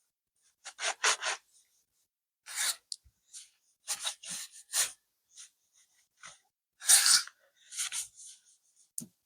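Irregular short rubbing and scratching strokes on a laptop's plastic case, each under half a second, with silent gaps between them; the loudest comes about seven seconds in.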